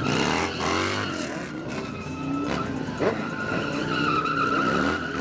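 Motorcycle engine revving up and down several times over a high, steady tire squeal, with the squeal loudest near the end.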